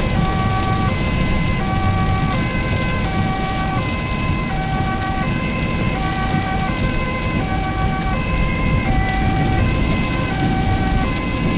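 Ambulance two-tone siren, alternating evenly between a high and a low tone about every three-quarters of a second. It is heard from inside the ambulance over steady engine and road noise.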